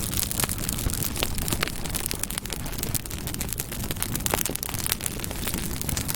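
Campfire burning: frequent sharp crackles and pops of burning wood over a steady low rumble.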